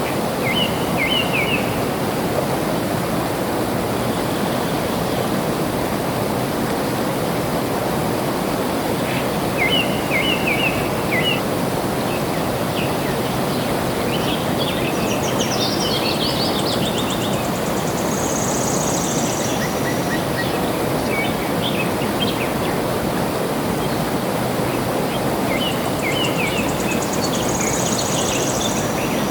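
Steady rush of flowing water with birds singing over it: short chirping phrases come three times, and a high, buzzy trill sounds twice in the second half.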